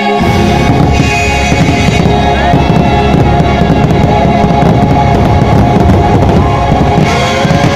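Fireworks barrage: a dense, continuous run of rapid bangs and low rumble that starts abruptly, heard together with the show's music. A few whistling streaks glide in pitch through the noise.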